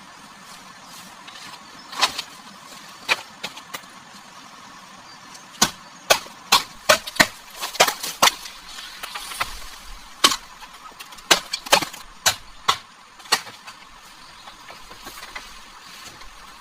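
A series of sharp knocks at an irregular pace, a few at first and then in two quick clusters, over a steady background hiss.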